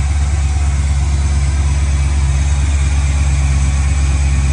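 The 1965 Chevy Nova's swapped aluminum 6.0-litre LS V8 idling smoothly and steadily on its first start-up. The idle is still raised while the engine is cold.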